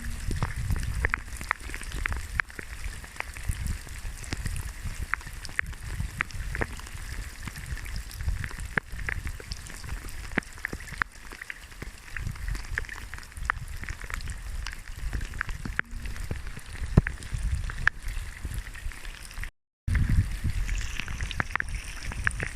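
Heavy rain during a storm, drops ticking sharply one after another over a gusty rumble of wind on the microphone. The sound cuts out for a moment near the end.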